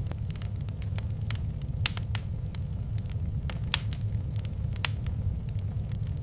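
Wood fire crackling in a fireplace: scattered sharp pops and snaps over a steady low rumble, with three louder pops about two, three and a half, and five seconds in.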